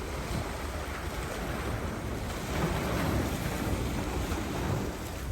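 Choppy waves washing in, with wind rumbling on the microphone; a louder rush of water swells about halfway through and fades near the end.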